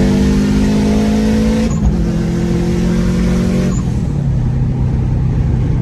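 Turbocharged Subaru EJ257 flat-four accelerating hard: the engine note climbs, breaks briefly at a gear change about two seconds in and climbs again. Around four seconds in the driver lifts off and the note drops to a lower steady drone.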